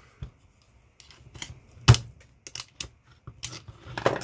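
Irregular sharp clicks and clacks of a massager's metal parts and hand tools being worked as two pieces are pried apart, with one louder knock about two seconds in.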